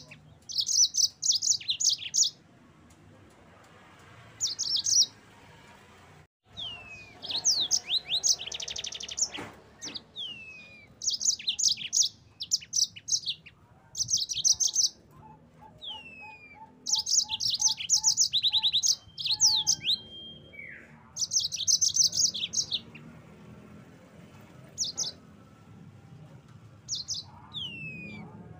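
Yellow-fronted canary (mozambik) singing: bursts of rapid high trills mixed with quick down-slurred whistles, phrase after phrase with short pauses between.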